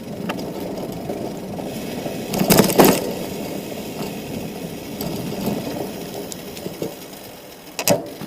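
Bicycle being ridden over rough ground: a steady rumble of tyres with rattling from the chain and frame, and a louder clattering jolt about two and a half seconds in and another near the end.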